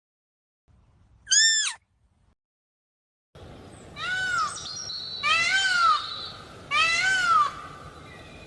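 An animal giving short, high-pitched calls, each rising and falling in pitch. There is one call about a second in, then after a cut, three more about a second and a half apart over a steady background hiss.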